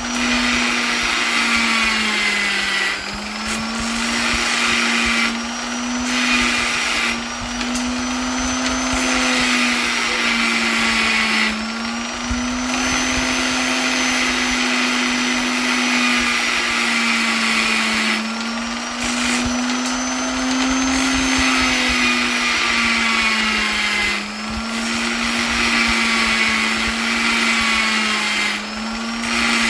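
Electric polisher motor running steadily with a whirring hum and a hissy rush of air, its pitch sagging briefly every few seconds before recovering.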